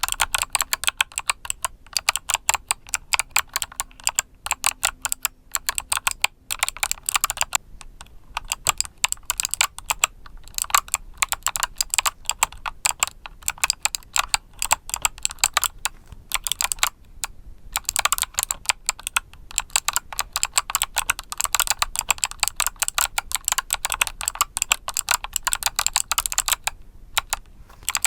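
Mechanical keyboard with clicky Kailh Box Summer switches being typed on: rapid key clicks in runs, with brief pauses a few times.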